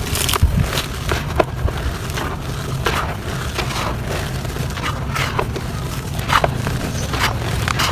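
Clumps of soft dirt being crumbled and crushed by hand, giving irregular crunches and crackles, with a few sharper cracks, over a steady low hum.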